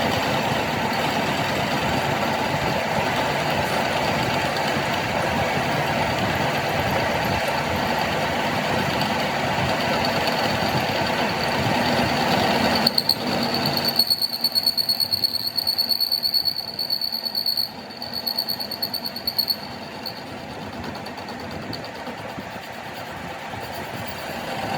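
Workshop machinery running steadily for about thirteen seconds. It then gives way to a high whine with fast, uneven clattering until about twenty seconds in, and a quieter steady running sound after that.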